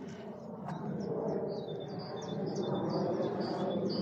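A small songbird singing, a quick run of short high chirps that starts about halfway through, over a steady low rushing background noise.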